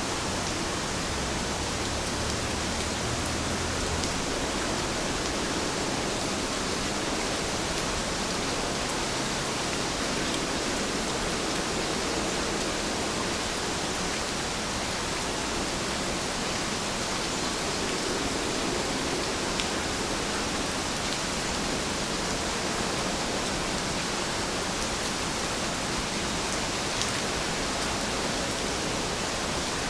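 Heavy rain falling steadily, an even hiss with an occasional louder drop.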